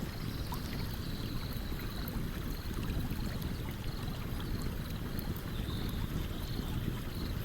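Stream water running steadily, with a campfire crackling over it in small, scattered sharp pops. A faint high chirping repeats in the background.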